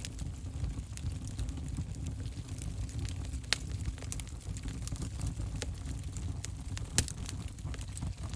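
Wood fire crackling in a fireplace: a steady low rumble of the burning fire with scattered sharp pops, the loudest about three and a half seconds in and another near the end.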